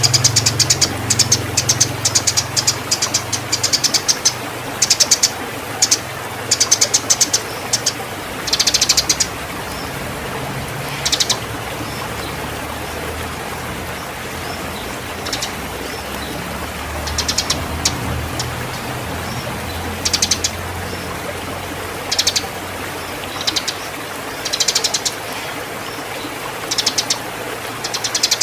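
Eurasian tree sparrow giving rapid, high chirps in bursts, dense for the first several seconds and then scattered, the agitated calls of a male fighting and in breeding condition. A low steady hum runs underneath.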